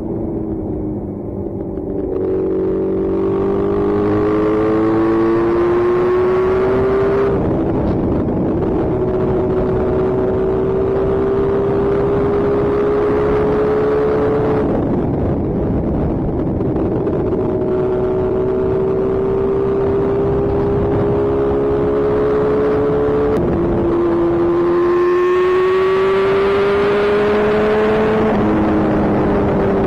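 Sport motorcycle engine running at speed, its note climbing slowly and dropping back several times, about 7, 15, 23 and 28 seconds in, over steady rushing wind noise.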